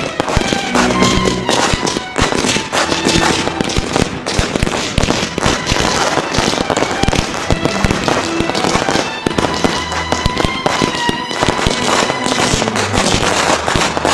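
Fireworks batteries firing continuously: a dense run of bangs and crackling stars, with music playing underneath.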